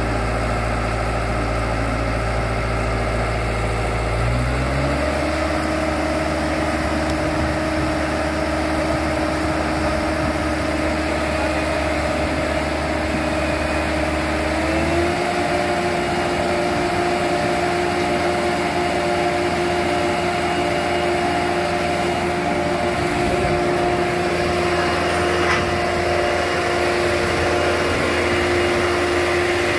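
An engine running steadily, its speed stepping up about four seconds in and again about halfway through.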